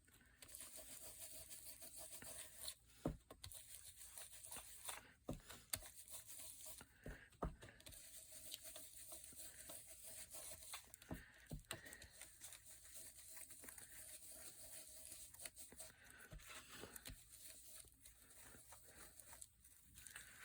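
Faint handling of paper craft materials: soft rustling with scattered light taps and clicks at irregular intervals.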